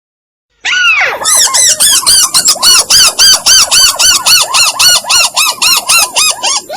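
Recorded call of a tikusan crake played as a bird-trapping lure: a sharp opening note, then a long rapid run of evenly spaced, arching notes at about five a second, tapering near the end.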